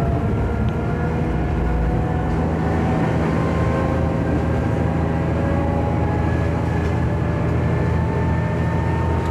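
Diesel railcar running along the line, heard from inside the car: a steady low engine hum with a whine that slowly rises in pitch as the train gathers speed.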